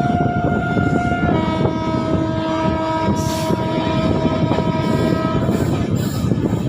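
Train air horn held as one steady note, which changes about a second in to a chord of several notes held for about four seconds and then stops. The running rumble of the train's wheels on the rails continues underneath.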